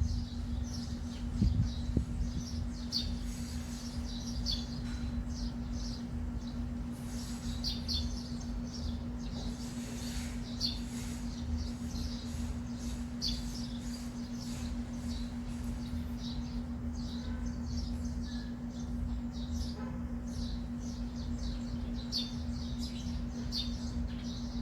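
Small birds chirping in short, scattered high calls, over a steady low hum and background rumble.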